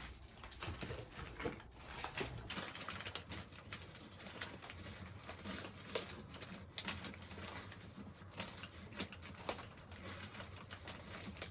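Hands handling packaged items: irregular rustling and crinkling of plastic packaging with light taps and clicks as things are fitted into place.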